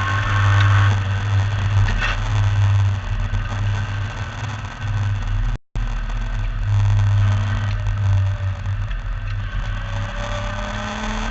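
MGB V8 race car's V8 engine running hard under racing load, heard from on board, its drone swelling and easing as the throttle changes. The sound cuts out for a split second about halfway through.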